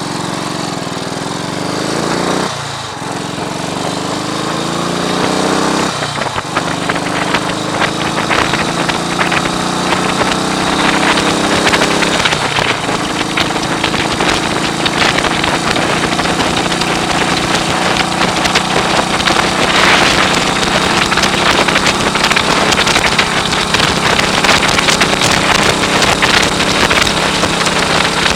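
1939 AJS Model 22 250 cc single-cylinder engine accelerating through the gears: the revs rise and drop back three times, then hold steady at cruising speed. Heavy wind noise on the microphone runs over it.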